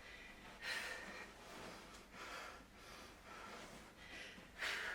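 Heavy breathing close to the microphone: a string of loud, airy breaths in and out, about one a second, the strongest about a second in and near the end.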